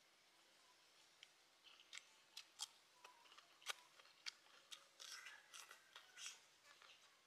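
Faint, crisp crunches and clicks of a person biting and chewing raw cucumber: a few single sharp ones spread out, then a quick cluster near the end.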